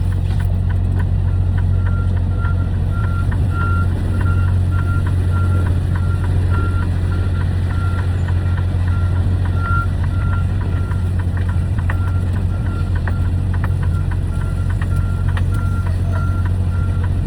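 Truck engine and road drone with a steady low hum. Over it, a short high beep repeats about twice a second, like a reversing alarm, starting about two seconds in.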